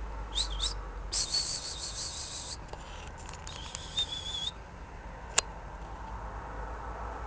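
Small songbird singing: two quick whistled notes, then two bursts of rapid high twittering. A single sharp click comes about five seconds in.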